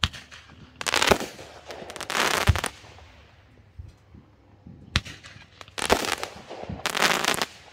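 Consumer fireworks going off: sharp single reports and four clusters of rapid crackling pops, a pair early and a pair late.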